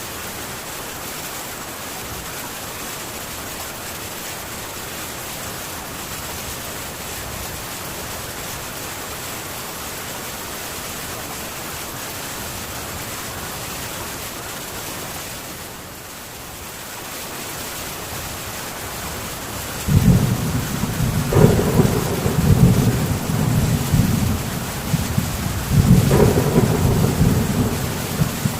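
Heavy rain falling steadily on a metal tin roof. About two-thirds of the way through, thunder breaks in suddenly: a loud, low, rolling rumble with several swells that keeps going over the rain.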